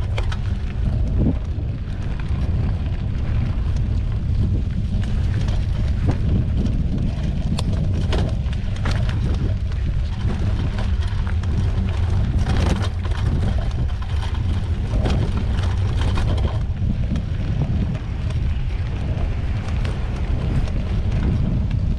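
Wind buffeting the microphone of a camera on a moving mountain bike, a steady loud rumble, with scattered clicks and rattles from the bike rolling over the trail.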